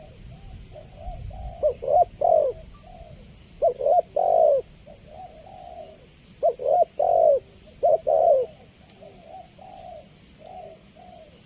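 Spotted dove (tekukur) cooing: four loud phrases of two or three quick coos about every two seconds, with softer coos between them.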